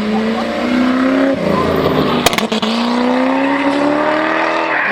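Historic rally car's engine accelerating hard: its pitch climbs, drops at an upshift about a second and a half in, then climbs again through the next gear. There is a sharp crack near the middle.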